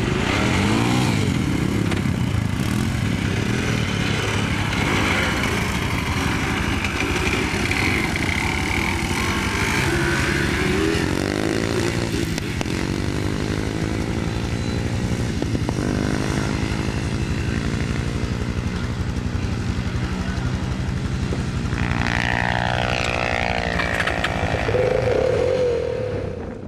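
Quad bike engine running hard, its pitch rising and falling several times as it revs up and eases off.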